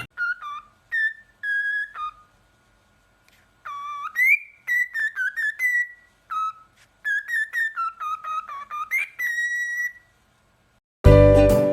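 A pet parrot whistling a run of short notes, some sliding up or down in pitch, in several bursts with pauses between. Music starts near the end.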